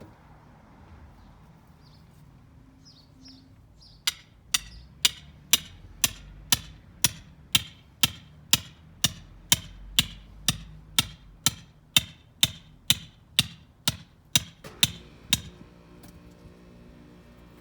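Hammer driving a steel rebar stake into the ground: a steady run of about two dozen sharp strikes, roughly two a second, starting about four seconds in and stopping a couple of seconds before the end.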